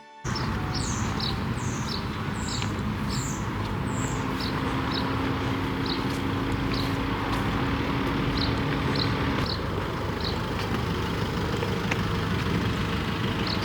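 Steady traffic noise with a small bird chirping over it, short high calls about once a second. A low steady hum runs for several seconds midway.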